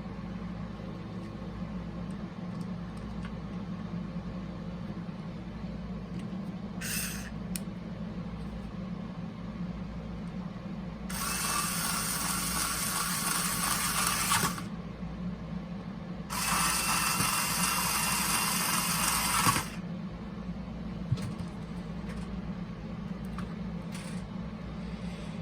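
A small power tool runs twice, about three seconds each time, over a steady low hum, with some handling sounds of small parts in between.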